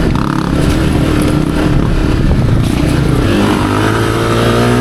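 Dirt bike engine running while riding, with rough noise from the ride. About three seconds in it revs up, its pitch rising.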